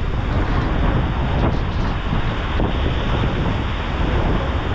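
Wind buffeting the microphone on the deck of a moving ferry, over the steady rush of heavy waves and rain on the lake.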